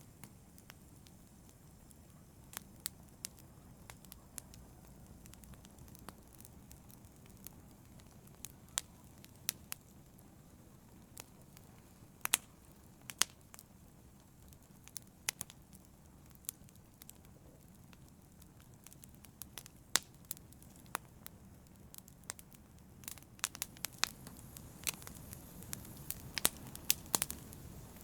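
Wood fire burning in a fireplace: sharp, irregular crackles and pops over a low, steady hiss, the crackling growing busier near the end.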